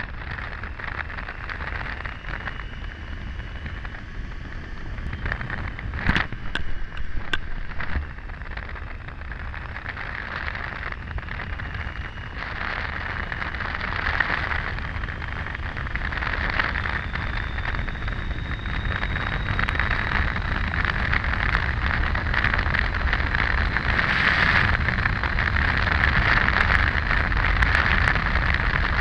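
Wind rushing over the microphone and the rumble of a Triumph Tiger 800 motorcycle riding along a highway, getting louder from about halfway as speed builds. There are a few sharp knocks about a quarter of the way in.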